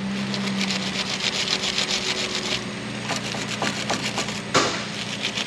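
Wire brush scrubbing a corroded car-battery terminal, fast back-and-forth scraping strokes that pause briefly a little past halfway and then carry on, clearing away acid corrosion.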